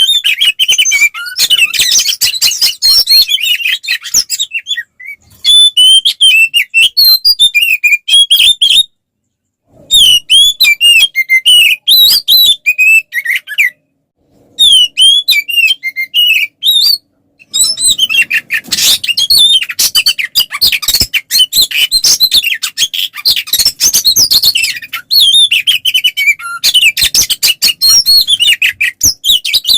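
Oriental magpie-robin (kacer) singing a loud, fast run of chirps and whistled phrases, broken by a few short pauses: its agitated fighting song, of the kind played to provoke other magpie-robins into answering.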